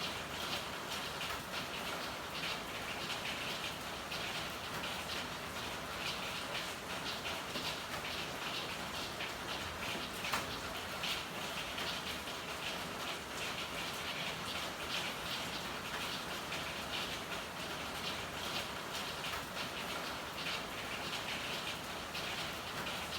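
Steady rain falling, a dense, even patter of drops, with one sharper tick about ten seconds in.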